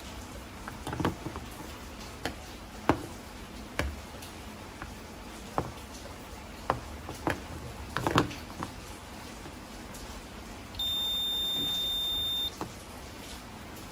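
Scattered light clicks and taps of tools and small parts being handled during the repair of a rotary hammer. About eleven seconds in, a single steady, high electronic beep sounds for under two seconds.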